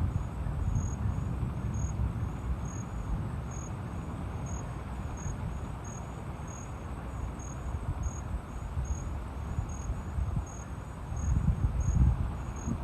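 A cricket chirping steadily, single high short chirps a little more than once a second, quickening slightly, over a low rumble that swells near the end.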